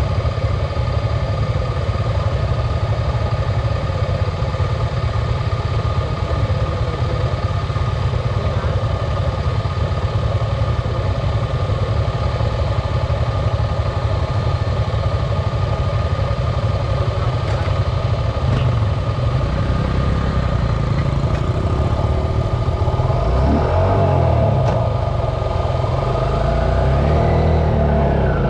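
Dirt bike engines running steadily. In the last several seconds, an engine revs up and down, its pitch rising and falling.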